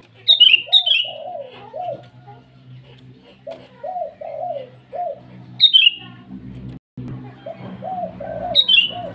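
Sooty-headed bulbul calling with short, loud, falling whistled notes: a pair near the start, another just before six seconds and another near the end. Between them runs a lower series of arched cooing notes, about three a second.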